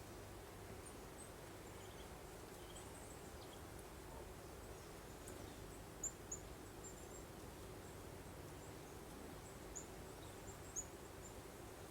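Faint, steady breeze hiss with small birds giving short, high chirps, a pair about six seconds in and a few more near the end.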